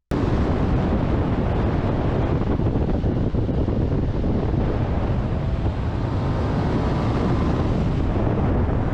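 Heavy wind buffeting on the microphone of a moving motorcycle, with the bike's running noise underneath, steady throughout.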